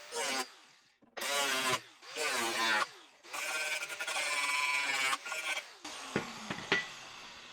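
A power cutting tool cutting sheet metal along a marked line on a car's tail panel. It runs in short bursts of whine that rise and fall in pitch, with one longer run in the middle. A few sharp knocks follow near the end.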